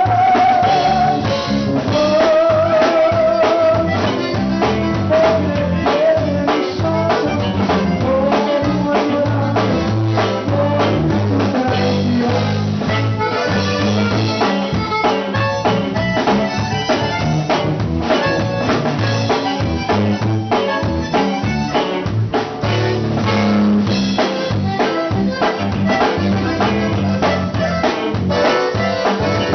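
Conjunto band playing an instrumental passage, with a wavering accordion melody over a steady drum-kit beat and bass.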